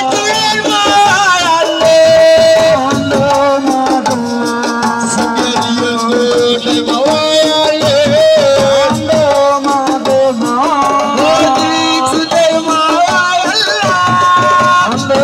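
Live Senegalese assiko band music: hand drums and rattles keep a busy beat under a melody that holds and bends its notes.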